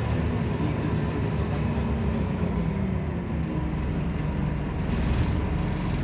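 Scania CN270UB city bus under way, heard from on board: the engine and drivetrain run with a steady low drone, and a faint short hiss comes about five seconds in.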